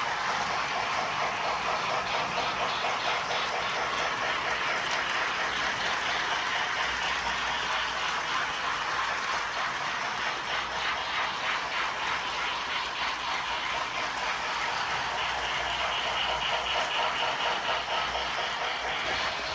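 Lionel O scale toy train running on its track: a steady whir with a rapid, even ticking clatter from the wheels on the rails.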